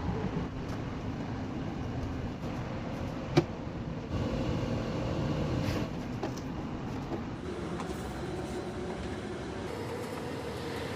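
Window air conditioner running with a noisy fan motor, a steady rough rumble, the motor sound problem being repaired. A sharp click sounds once about a third of the way in, and a steady hum joins past the middle.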